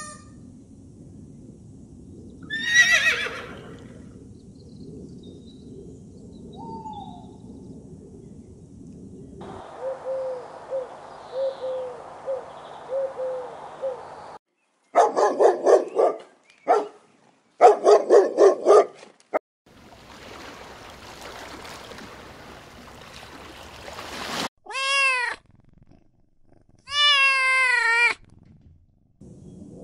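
A string of animal calls: a sharp cry about three seconds in, a run of soft, evenly spaced notes, then two loud stretches of rapid pulsing calls. Near the end a domestic cat meows twice.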